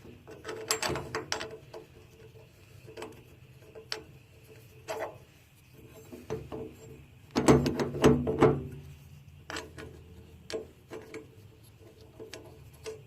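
Metal clicking and rattling as a nut is fitted and tightened to hold a table saw's handwheel on its shaft. The sharp clicks come irregularly, with a louder run of clatter about halfway through.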